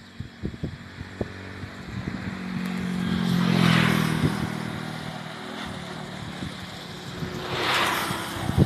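Motor vehicles passing on the road: an engine hum and tyre rush swells and fades about three and a half seconds in, and a second vehicle rushes past near the end, with low thumps of wind on the microphone.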